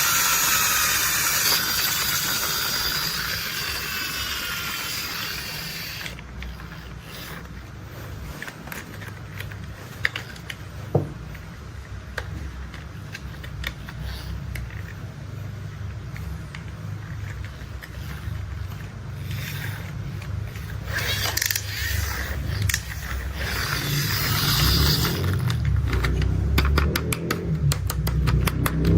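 Toy construction-vehicle sounds. A hiss fades over the first few seconds, then a low rumble carries scattered mechanical clicks and a single sharp knock. Near the end the rumble builds and a rapid run of ratchet-like clicks sets in.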